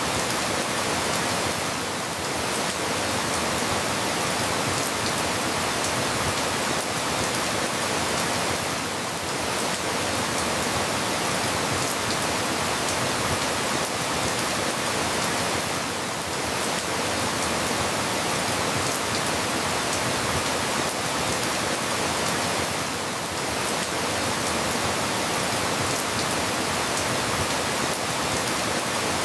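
Steady rain falling, an even hiss with a faint swell about every seven seconds.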